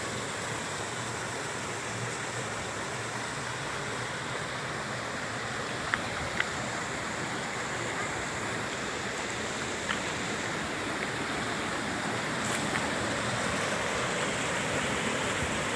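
Steady rush of flowing and falling water from a waterfall stream, with a few faint clicks about six and ten seconds in.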